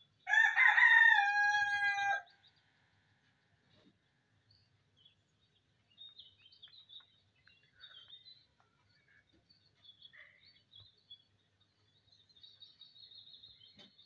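A single loud bird call lasting about two seconds, starting just after the beginning, followed by faint high chirps on and off.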